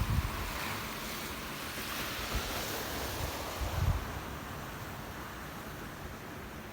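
Ocean surf washing in a steady hiss, with wind buffeting the microphone in a few low thumps at the start and just before four seconds in.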